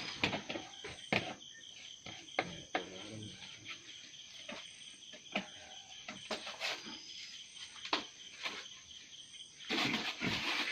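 Steady high insect drone, with scattered short clicks and knocks throughout and a louder brief rush of noise near the end.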